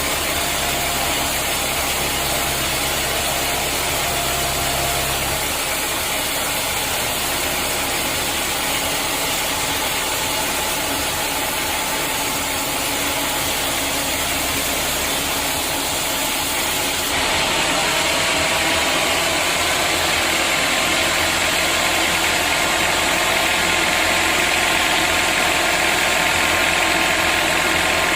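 Sawmill machinery running steadily with a dense mechanical noise. About two-thirds of the way through it steps up louder and harsher.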